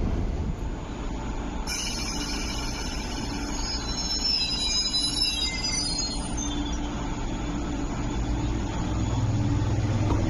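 MTR East Rail Line MLR electric multiple unit running along the platform with a steady rumble. From about two seconds in, a high-pitched metallic squeal of several tones comes from its wheels and fades out a few seconds later. A low hum grows louder near the end.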